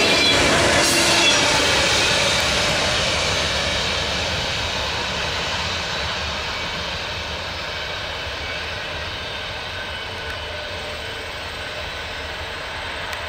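Freight train's tank cars rolling past on steel rails as the train draws away: a steady rumble of wheels on track that fades steadily.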